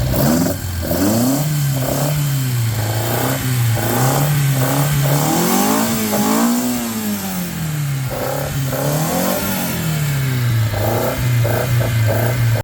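Ford Escort Mk1 Mexico replica's engine being revved, a series of throttle blips that rise and fall back to a steady idle, the longest and highest rev about halfway through.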